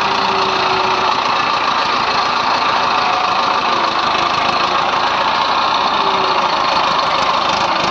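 Heavy diesel engine running steadily at an unchanging speed.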